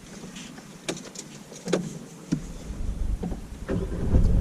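A few clicks from the car's controls, then the car's petrol engine starts about halfway through and keeps running with a low rumble that gets louder near the end.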